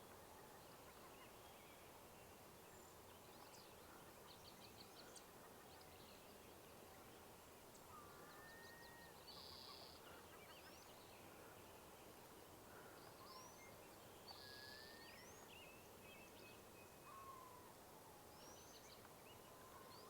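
Faint, scattered bird calls from several birds: short whistles, chirps and sliding notes, with two brief buzzy notes about a third and two thirds of the way through.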